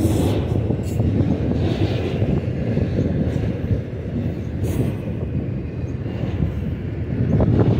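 Intermodal freight train of flatcars loaded with highway trailers rolling past: a steady low rumble of steel wheels on rail, with a few faint clicks.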